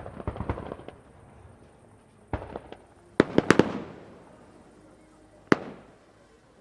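Fireworks going off. A quick run of crackling reports comes first, then a short cluster of bangs about two and a half seconds in, a louder volley of bangs with a lingering rumble about three seconds in, and a single sharp bang near the end.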